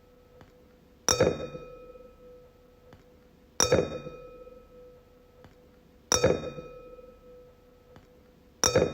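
Wine glass struck four times, about two and a half seconds apart. Each tap gives a bright clink followed by a clear ringing tone that fades away over a second or two.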